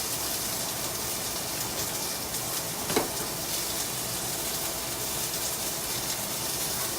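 Kitchen tap running steadily as bok choy is rinsed under it, with chicken frying in a pan, and a brief click about three seconds in.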